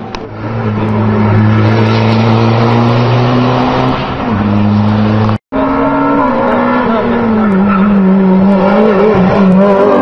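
Competition car engine running hard at high revs on a hill-climb course, its pitch steady and then stepping down partway through. It breaks off suddenly and picks up again with a wavering, sagging pitch.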